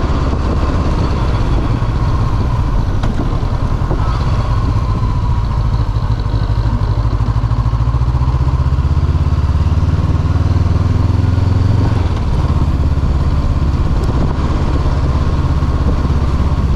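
Honda CB500F's 471 cc parallel-twin engine running under way, the note building for a few seconds and then dropping back about twelve seconds in, as at a gear change or roll-off.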